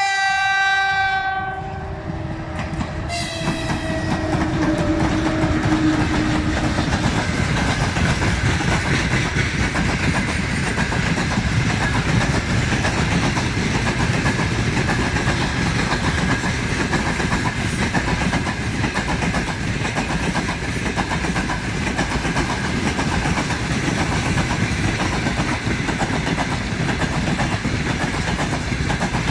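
Electric freight locomotive sounding its horn twice as it reaches the camera. The second blast falls in pitch as the locomotive goes by. A long train of open-top freight wagons then runs past with a steady rolling rumble of wheels on rails.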